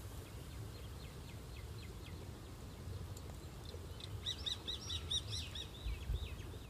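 A bird calling in a rapid run of short, repeated chirps, about five a second, faint at first and louder from about four seconds in, over a low steady rumble.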